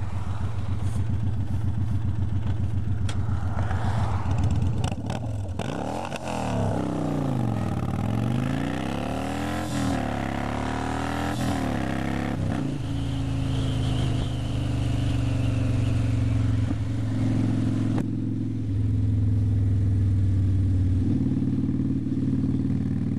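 Cruiser motorcycle engine running under way, with wind rushing over the helmet microphone. The engine note shifts with throttle and gears: a stretch of sweeping rise-and-fall in pitch near the middle, then a steadier, lower note that steps up and down a few times toward the end.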